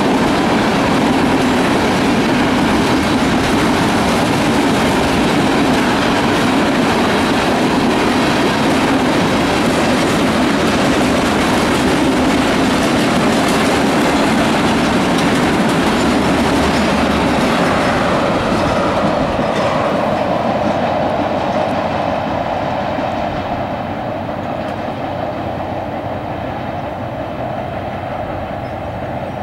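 Freight train of tank cars rolling past close by: steel wheels running over the rails in a steady, loud clatter. In the last third it fades and dulls as the end of the train passes and moves away.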